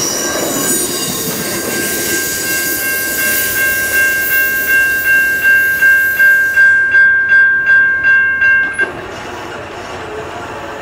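Passenger railcars rolling past with steel wheel-on-rail noise that dies away about six and a half seconds in, as the end of the train goes by. Over it a rapid ringing, about three strokes a second, typical of a level-crossing warning bell, which stops suddenly near nine seconds.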